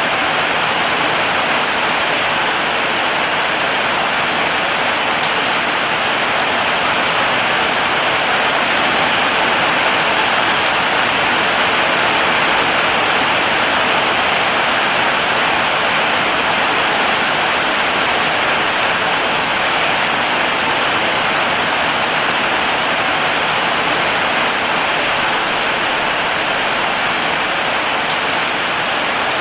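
Heavy rain falling steadily, a dense even hiss of many drops on surfaces with no separate drips or thunder standing out.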